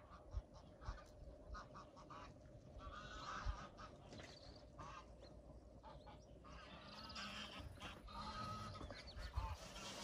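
Faint bird calls, like those of farm fowl, in two spells: about three seconds in and again from about seven seconds, over a steady faint drone.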